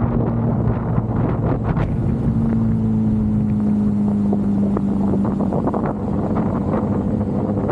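Motorcycle engine running at a steady cruise, its pitch easing down slightly in the middle, with wind buffeting the microphone.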